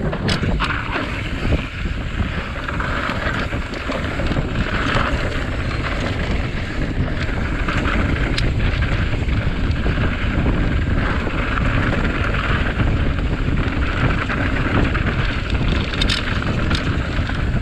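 Wind buffeting the microphone and the rumble of a full-suspension mountain bike rolling down a rough trail. A few sharp clicks and rattles from the bike come through the steady noise.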